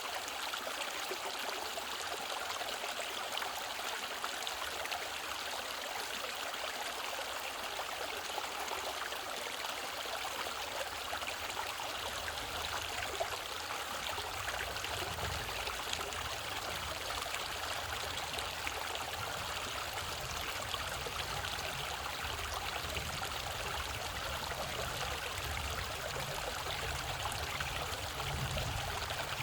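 Mountain stream flowing and trickling over rocks, a steady rushing of water. About twelve seconds in, a low rumble comes in underneath and stays.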